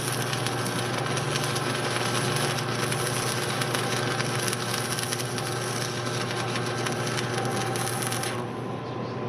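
Continuous electric arc welding crackle on steel, which stops abruptly near the end, over a steady low shop hum.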